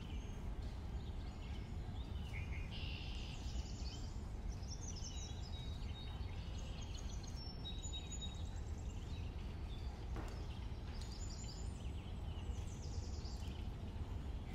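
Small birds chirping and twittering over a steady low background rumble.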